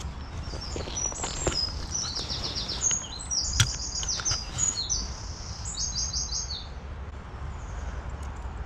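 A songbird singing a long run of high, fast trilled phrases, over a steady low rumble, with a sharp click about three and a half seconds in.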